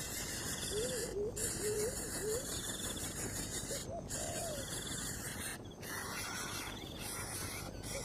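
Insects chirring steadily, with short repeated chirring pulses about every second and a half, and a string of low warbling calls from an animal about a second in and again near four seconds.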